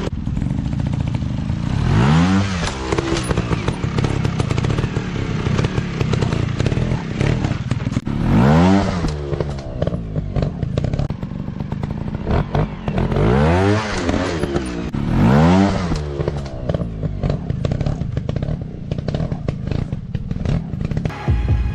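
Dirt bike engines running hard off-road, revving up and dropping back sharply four times, about 2, 8, 13 and 15 seconds in, with knocks and clatter from the bikes throughout.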